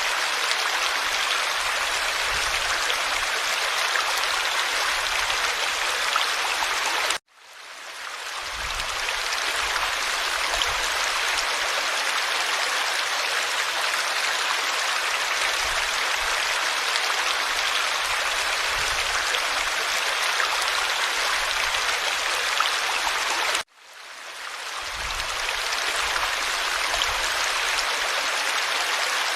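Forest stream flowing with a steady rushing babble of water. The sound cuts out abruptly twice, and each time fades back in over a second or two.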